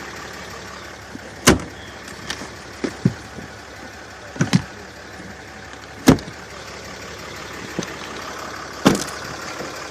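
A 6.7-litre Cummins inline-six turbo diesel idles steadily, with several sharp clicks and knocks from handling the truck scattered over the top.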